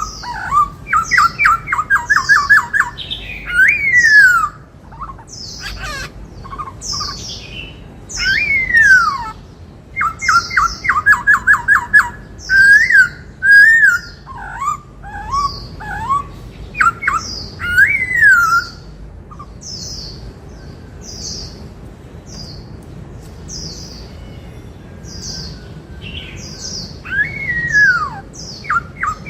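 Black-throated laughingthrush singing: loud whistled notes that rise and fall, mixed with rapid runs of short repeated notes and high sharp calls. The song goes quieter for several seconds past the middle, with only faint high notes, then picks up again near the end.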